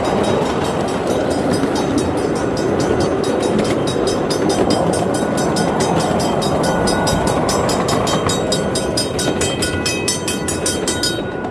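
Miniature ride-on train running along its track: a steady rumble with fast, even clicking. A faint, steady high squeal joins about seven seconds in, and the clicking stops just before the end.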